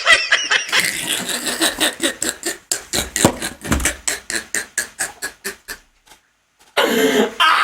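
A person laughing in a long run of quick, even bursts, about four or five a second, which stops abruptly about six seconds in; a voice starts up again near the end.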